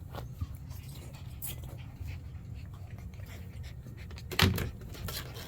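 Golden retriever puppy panting, with one sudden, louder noisy burst about four seconds in.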